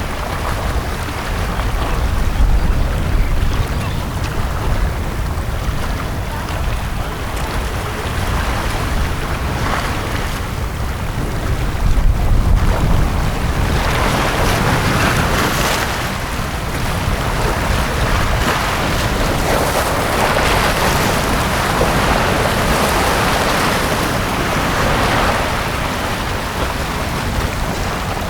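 Sea waves washing onto a beach: a steady rush of surf over a low rumble. The wash swells and grows brighter about halfway through.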